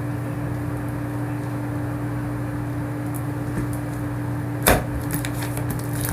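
A steady low hum throughout, with one sharp knock about three-quarters of the way through, followed by a few light clicks.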